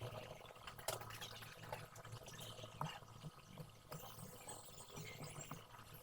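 Faint background noise with a steady low hum and a few light clicks and taps, the clearest about a second in.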